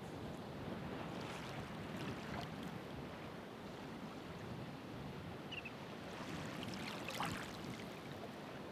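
Ocean surf washing on the shore: a steady rush of water with two louder washes of breaking, foaming water, about a second in and again around seven seconds in.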